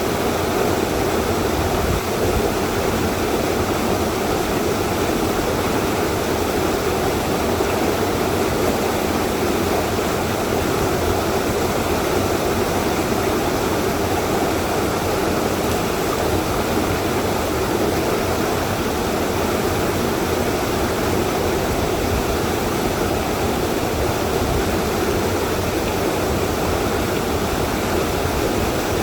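Waterfall's water pouring down in a steady, unbroken rush.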